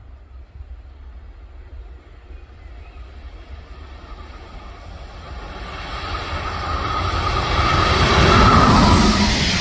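A train approaching along the line, its rumble and rail noise growing steadily louder and peaking near the end as it draws level.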